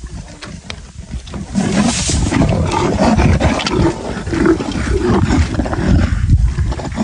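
Two leopards fighting, snarling and growling at each other over a kill; the growling gets much louder about a second and a half in.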